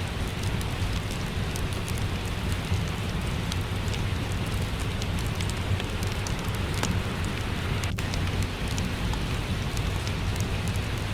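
Steady rainfall mixed with the sharp, scattered crackles and pops of a wood fire in a fireplace, over a low rumble.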